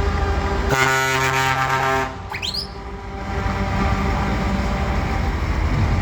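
A truck's air horn sounds one steady blast of about a second and a half, over the low rumble of a diesel truck engine running. Right after the blast comes a short rising whistle.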